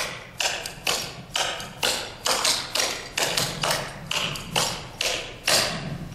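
Clogging taps striking a hard floor as dancers repeat the fancy double step: sharp, ringing clicks in an even rhythm of about two to three a second.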